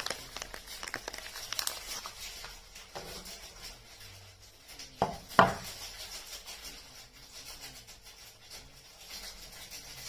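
Soap wrappers crinkling and rustling as they are handled and unwrapped, with quick small crackles at first. Two sharp, louder snaps come about five seconds in, half a second apart.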